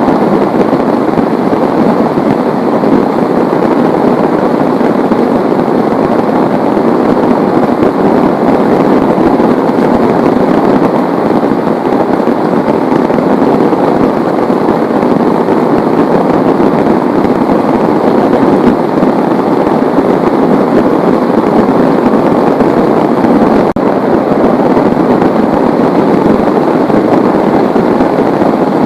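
Heavy rain pelting down steadily, a loud, dense, even patter.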